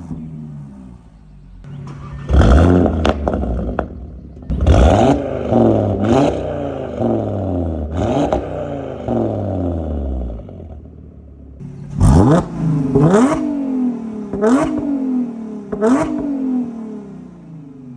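Car engine blipped repeatedly from idle, about eight sharp revs that each fall back to idle, in two sets with a short lull of idling in the middle.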